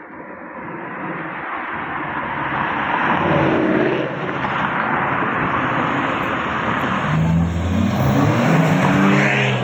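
Cars driving past under hard throttle: a broad engine and exhaust rush builds over the first few seconds. From about seven seconds in, an engine revs up and down several times in rising and falling pitch sweeps.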